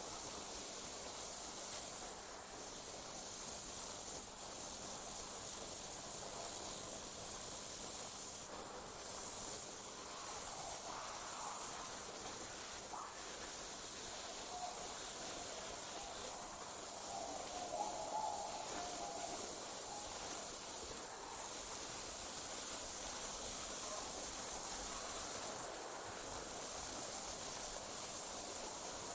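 Night-time insect chorus of crickets: a continuous high-pitched trill that breaks off for a moment every few seconds.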